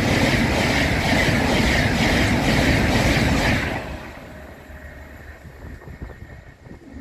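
Train passing close at speed, a loud rush with rapid rhythmic wheel clatter that ends abruptly about three and a half seconds in as the last coach goes by, leaving a faint fading rumble.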